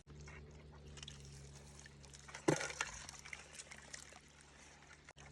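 Water trickling and sloshing over a steady low hum, with scattered small clicks and one louder splash-like knock about two and a half seconds in.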